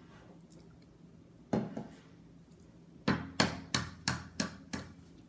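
An egg knocked against the rim of a ceramic mug to crack it: one sharp tap, then six quick taps about three a second.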